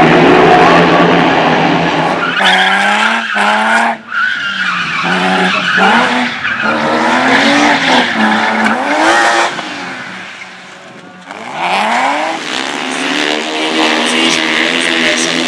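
Racing car engine revving up and down through gear changes, with tyres skidding and squealing. The engine briefly cuts out about four seconds in and goes quieter for a second or so about ten seconds in before rising again.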